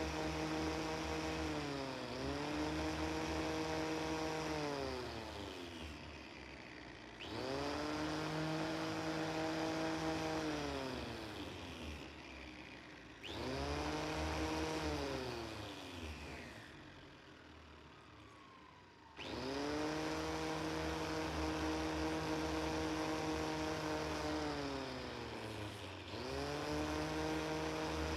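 Electric power tool motor, such as that of a grinder or sander used on the rusty blade. It runs at a steady high pitch, winds down with a falling whine each time it is released, and starts again abruptly, four times over.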